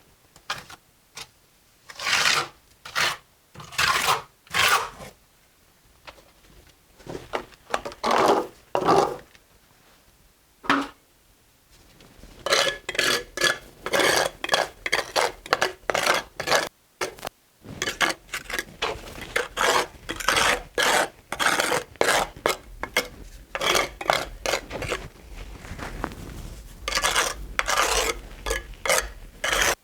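Steel mason's trowel scraping mortar against brick, in repeated rasping strokes: a few separate strokes at first, then quick, steady strokes from a little under halfway through.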